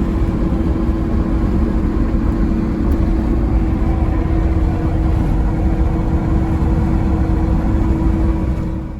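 A truck driving along: steady low rumble of engine and road noise with a constant hum. It cuts off abruptly near the end.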